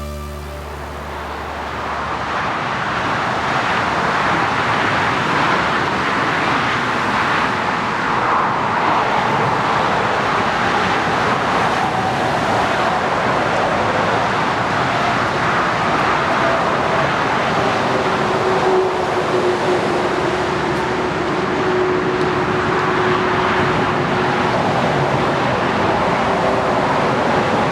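Airbus A340-600 jet airliner's four Rolls-Royce Trent 500 engines, a loud, steady jet roar. A steady droning tone comes in past the midpoint.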